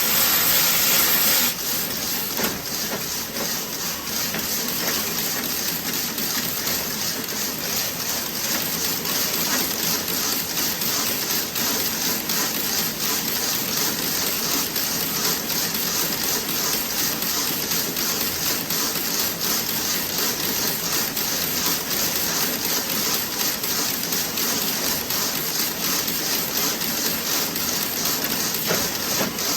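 Circular toe-sock knitting machine running with a dense, rhythmic mechanical clatter and hiss. A louder hiss for about the first second and a half.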